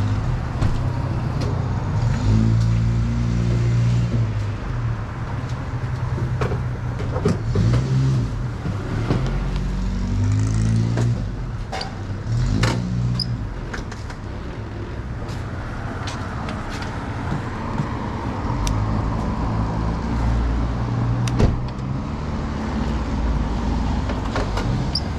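A road vehicle's engine running, its pitch stepping up and down several times as the revs change.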